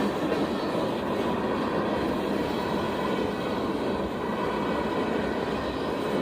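A train rolling past, with the steady noise of its wheels on the rails.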